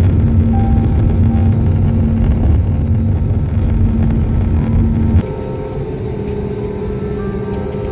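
Airbus A320neo cabin noise on the landing rollout: a loud low rumble that drops off suddenly about five seconds in, leaving steadier, quieter engine tones.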